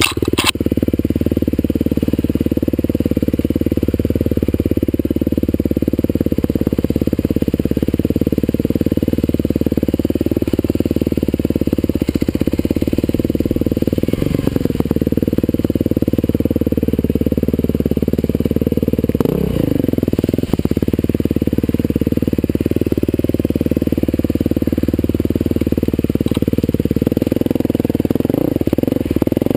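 Husqvarna TE511 single-cylinder four-stroke dirt bike engine running under load on a trail, its pitch rising and falling with the throttle, heard from the rider's helmet. A few short knocks break in along the way.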